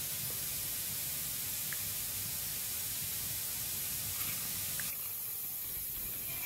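Wood fire burning in a fireplace: a steady hiss with a few faint, scattered crackles.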